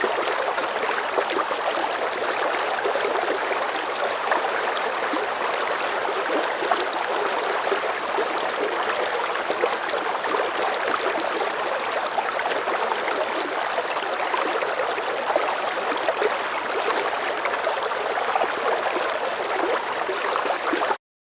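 Running water, like a babbling stream, with a steady rush full of small splashes, stopping abruptly near the end.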